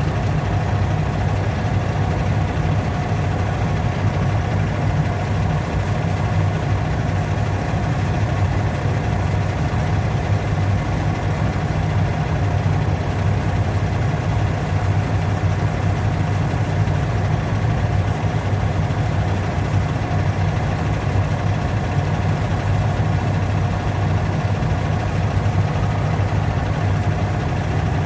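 A steady, unchanging low hum of a running motor.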